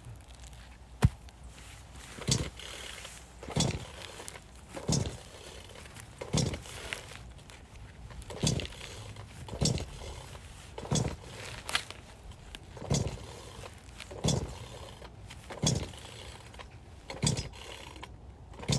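A sharp crack, then a steady run of about a dozen strokes on a log, roughly one every second and a half, as firewood is worked by hand.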